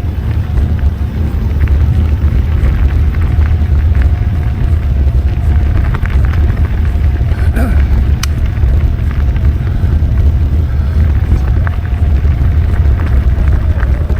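Wind buffeting the microphone in a steady low rumble while a bike rides over trail, with scattered clicks and knocks of the bike rattling over rough ground.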